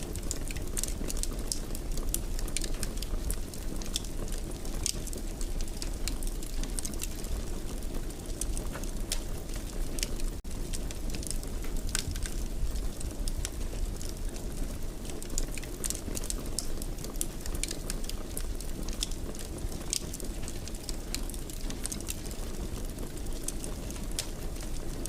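Wood fire in a fireplace crackling, with irregular sharp pops and snaps over a steady low rumble of burning, broken by a momentary dropout about ten seconds in.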